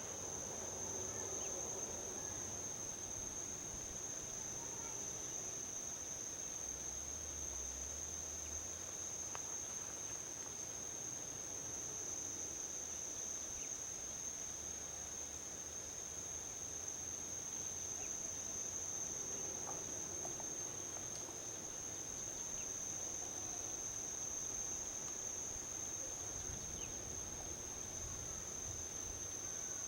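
A continuous high-pitched drone of insects, steady and unbroken, over a low, distant rumble of highway traffic that swells slightly as vehicles pass.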